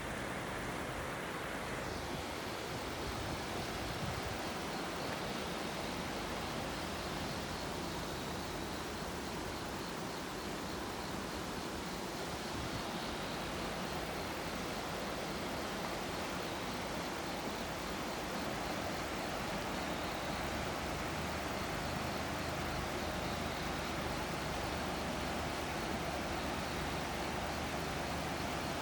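Steady rushing of a swollen river's water.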